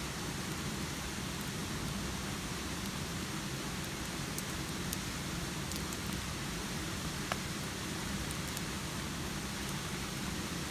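Steady rain falling, an even hiss with a few faint ticks and one sharper click about seven seconds in.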